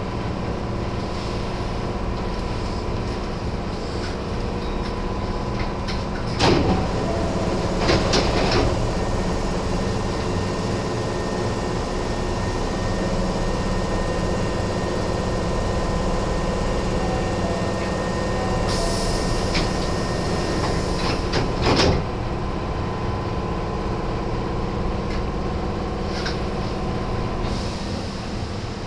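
Nose Electric Railway 1700 series electric train running: a steady rumble with a constant hum. A few sharp knocks of the wheels over rail joints come about six seconds in, around eight seconds and about twenty-two seconds in.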